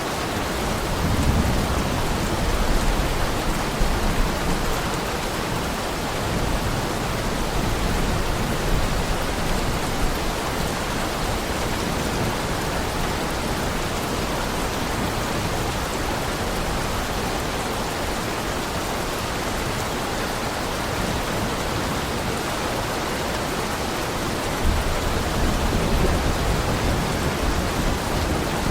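Heavy rain falling steadily, with low rolls of thunder about a second in and again near the end.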